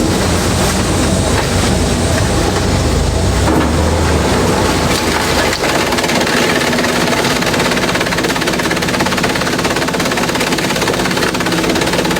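Industrial bamboo shredder running loud and steady, a dense fast mechanical clatter. About three and a half seconds in, its deep hum drops away and the rattling takes over.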